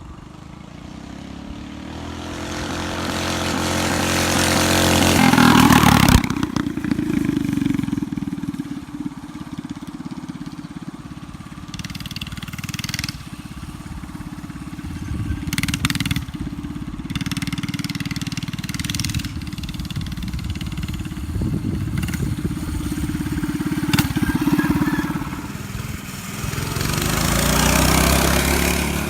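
Small mini bike engines running. The sound grows louder to a peak about six seconds in, drops off sharply, carries on at a steadier level, and swells again near the end, as a bike comes close and moves away.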